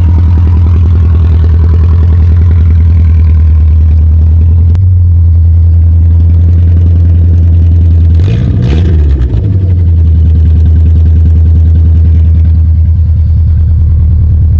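First-generation Ford Ranger engine running loud and open through only headers and a down pipe, idling just after a cold start. A little past halfway it is revved briefly, the pitch rising and falling back, then it settles to a steady idle.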